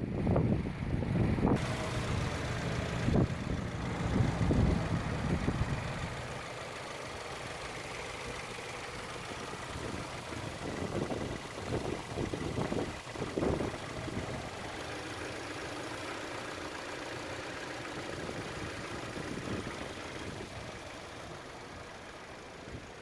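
2020 Subaru Ascent's engine idling, with a few knocks and handling thumps over the first six seconds before it settles into a steady, quieter hum.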